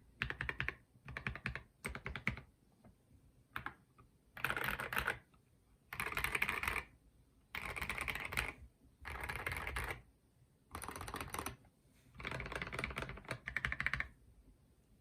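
Typing on a Rama Works M65-B mechanical keyboard with lubed Gateron Black Ink V2 linear switches, a polycarbonate plate and SA keycaps: a few short runs of keystrokes, then bursts of fast typing about a second long each with short pauses between. The typing stops about a second before the end.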